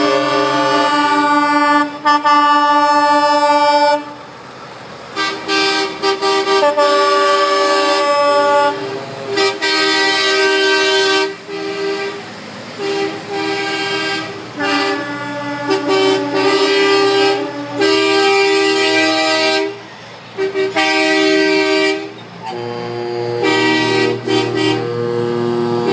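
Truck air horns blowing in long repeated blasts, several horns at different pitches sounding together as chords, with short breaks between blasts.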